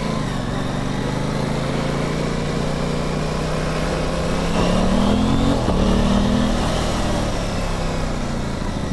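Aprilia Tuono 660 parallel-twin engine under way on the road, holding a steady note, then revving up twice in quick succession around the middle as it accelerates. The bike has just had its sluggish, laggy throttle response fixed.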